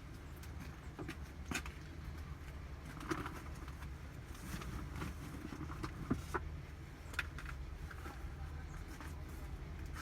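Outdoor ambience: a steady low rumble with scattered sharp clicks and a few low bird calls.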